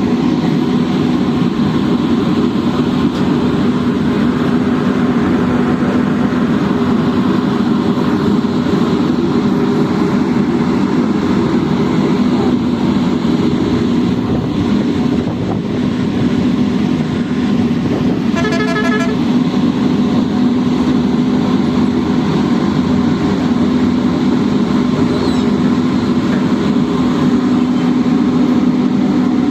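A large engine running steadily with a strong low hum, and a brief horn toot a little past halfway.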